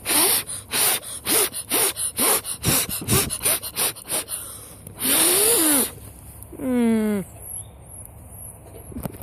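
Rapid short puffs of breath blown at a small fire, the air hitting the phone's microphone about three times a second, then one longer blow. A brief vocal sound falling in pitch follows.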